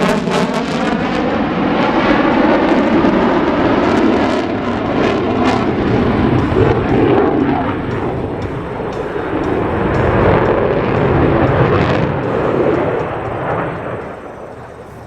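F-22 Raptor's twin Pratt & Whitney F119 turbofans giving a loud, sustained jet roar as the fighter flies its demonstration. Sweeping bands at the start suggest it is passing close by. The roar eases off and fades over the last couple of seconds.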